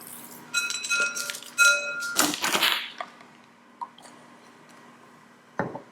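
A kitchen utensil clinking on glassware several times with a bright ringing tone, then a short scraping rustle about two seconds in and a soft knock near the end.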